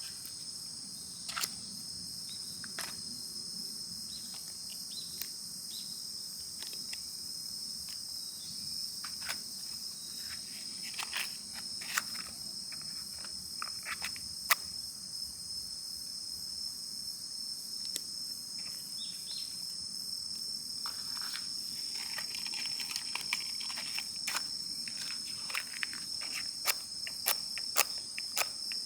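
Steady chorus of insects, crickets' kind, shrilling in two high even tones, with scattered short clicks and snaps throughout and a brief rustling hiss about two-thirds of the way in.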